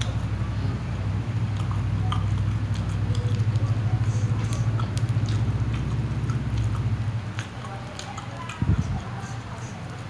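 Chewing of instant fried noodles and meatballs, with small clicks of a plastic fork against the plastic tray. Under it runs a low steady hum that dies away about seven seconds in, and a single dull thump comes near the end.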